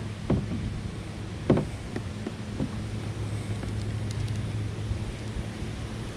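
A small boat motor hums steadily under wind noise. A few sharp knocks break in over the first three seconds, the loudest about a second and a half in.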